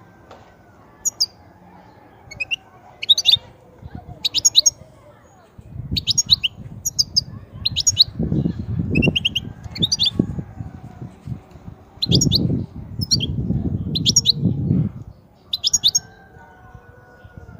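European goldfinch singing: short, high twittering notes repeated in quick phrases. From about six to fifteen seconds in, a loud low rumbling noise runs underneath.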